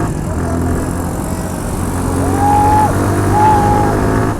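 Motorcycle engine running as the bike rides along, with two short steady high tones about a second apart a little past halfway.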